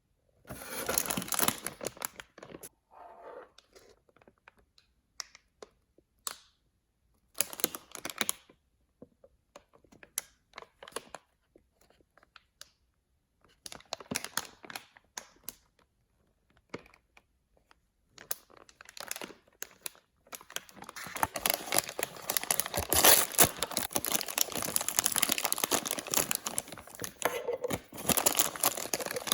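Blind-bag toy packaging torn open and crinkled by hand: scattered short tears and rustles, then steady, dense crinkling from about 21 seconds in.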